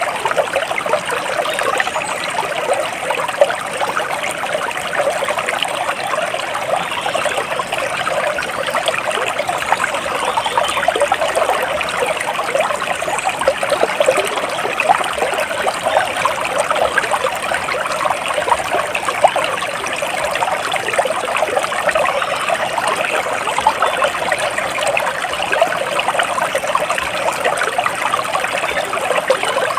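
Small stream of water trickling and babbling steadily, a continuous dense splashing with no pauses.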